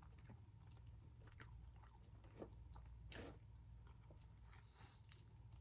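Faint close-miked chewing of crispy food, with scattered crunches, the clearest about two and a half and three seconds in.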